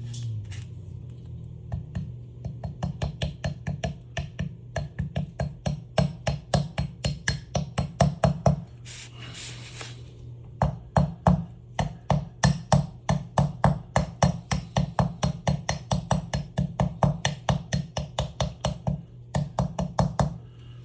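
A new ball bearing being tapped into the spooling motor housing of a Studer A820 tape recorder: quick, even knocks, about five a second, in long runs, with a short break near the middle that holds a brief hiss and another just before the end, over a low steady hum.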